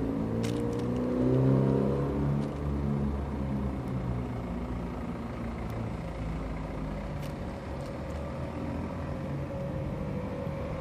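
A road vehicle's engine running close by, a low hum loudest in the first couple of seconds and then easing into a steady background drone of traffic, with a few faint sharp clicks.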